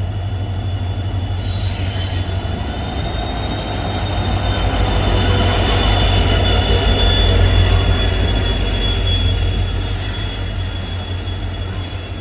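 Locomotive-hauled express train passing close along the platform: a heavy low rumble with a high, steady wheel squeal over it. It grows louder to a peak a little past the middle as the locomotive and coaches go by, then eases.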